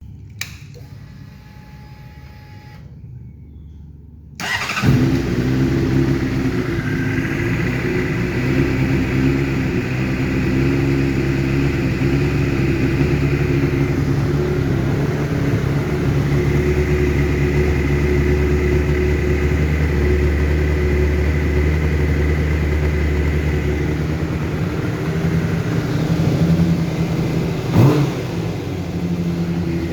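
2012 Honda CBR600RR inline-four with a full Yoshimura exhaust system: after about four seconds of a faint hum, the engine fires abruptly and settles into a fast, uneven idle, with a brief blip near the end. The idle sits at about 2,100 rpm and flickers instead of running smoothly, a fault the owner suspects is an uncalibrated throttle position sensor.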